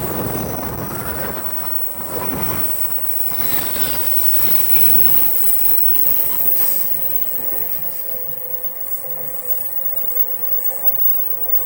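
Train running through a station, its wheels squealing on the rails in shifting high-pitched squeals. The noise dies down about seven seconds in, leaving a fainter steady hum.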